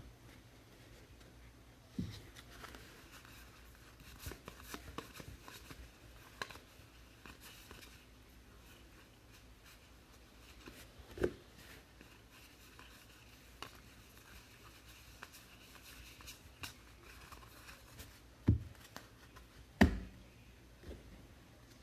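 Trading cards being handled during a pack break: quiet rustling and frequent small clicks and taps as cards are flipped through, with a few louder knocks about two seconds in, near the middle, and twice near the end.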